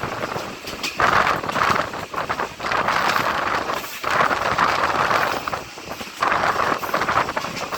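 Passenger train running along the track: a dense rattling, clattering noise that swells and dips irregularly.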